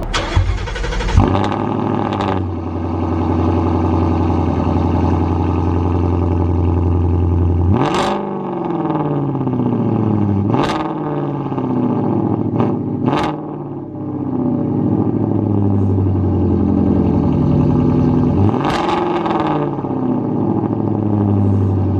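Ford Mustang GT's 5.0-litre V8 running at idle and blipped four times. Each rev climbs quickly and falls slowly back to idle. A sharp knock sounds about a second in.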